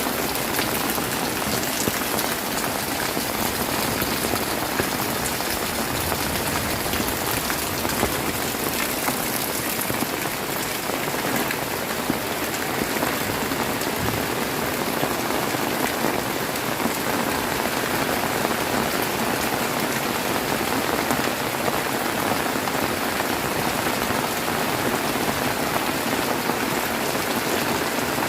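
Heavy rain pouring steadily, a dense, even patter of drops hitting surfaces.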